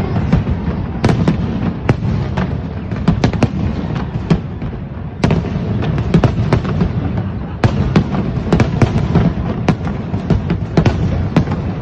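Fireworks display: many sharp cracks and bangs at irregular intervals, several a second at times, over a continuous low rumble of bursts.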